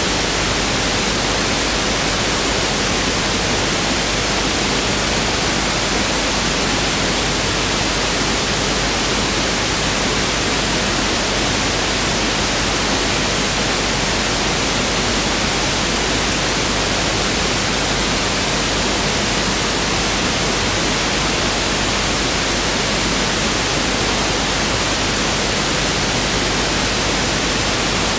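Pink noise (1/f noise) test signal: a steady, unchanging hiss spread evenly over the whole range, with equal energy in each octave.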